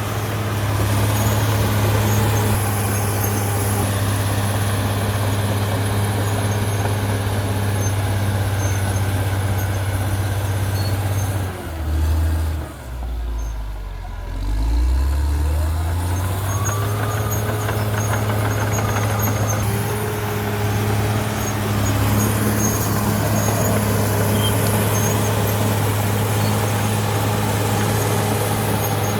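CAT D6R XL bulldozer's diesel engine running steadily under load. About twelve seconds in the revs drop briefly, then climb back up a few seconds later.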